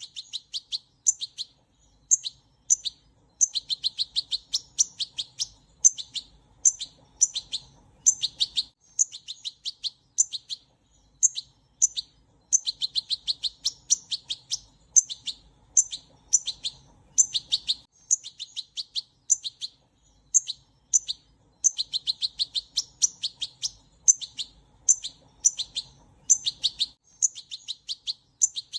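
Small bird chirping: short, high-pitched chirps several times a second, with denser rapid runs that come back about every nine seconds.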